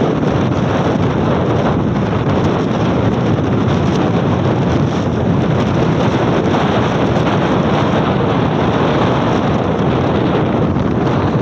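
Strong wind blowing steadily, a loud, even rushing that buffets the microphone.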